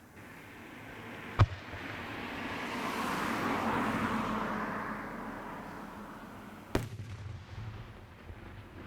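Fireworks display: a sharp burst about a second and a half in, then a long hiss that swells and fades over several seconds, and a second bang followed by rumbling echo near the end.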